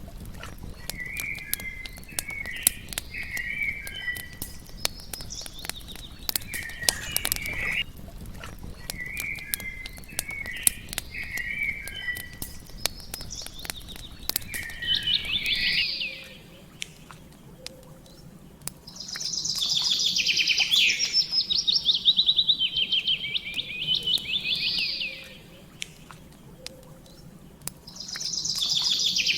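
Songbirds singing: short warbling phrases over many sharp crackles during the first half. In the second half come loud, rapid trills, each a run of quickly repeated high notes lasting a few seconds, heard three times.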